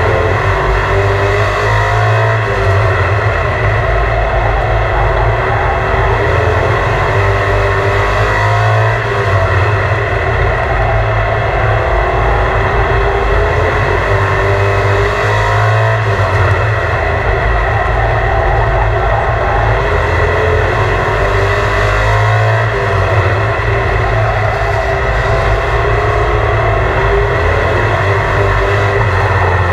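Engines of a field of racing trucks running hard together, several engine notes rising and falling over one another, the whole sound swelling and easing every several seconds.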